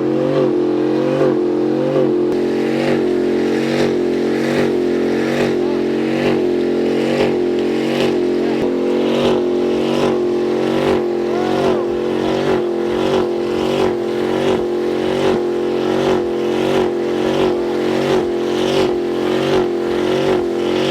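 A truck engine held at high revs during a burnout, running steadily with a regular pulse about one and a half times a second.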